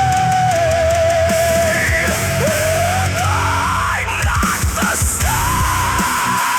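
Heavy gothic rock instrumental passage: a single high lead melody slides up into long held notes over distorted guitars, bass and drums.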